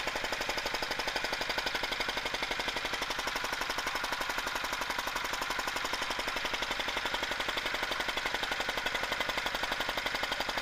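Diesel tractor engine running steadily, a fast, even knocking beat, with its injector freshly adjusted to spray a fine mist to cure the engine's smoking.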